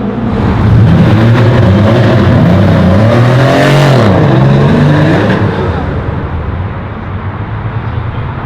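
A performance car accelerating hard past, its engine note climbing, then dropping as it goes by about four seconds in, and fading as it drives off.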